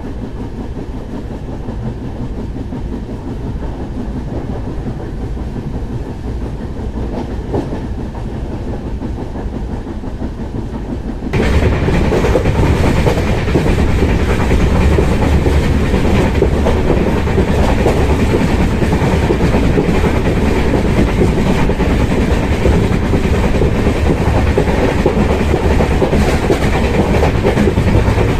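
Passenger train running on the line, its coach wheels clattering over the rail joints with a steady rumble. The noise jumps suddenly louder about eleven seconds in and stays there.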